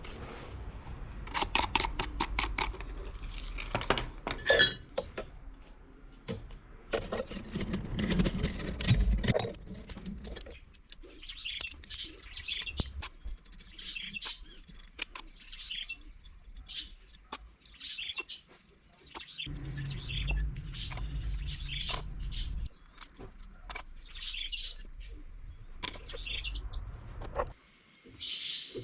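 A bird chirping over and over, about once a second, through the second half. Earlier there is a run of sharp clicks and knocks.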